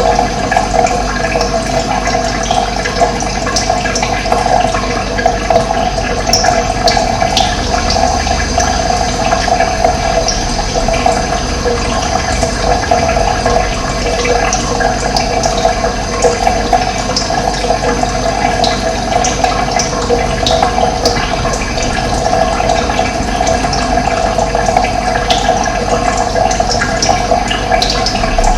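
Steady rushing of running water, with brief high bird chirps dotted over it.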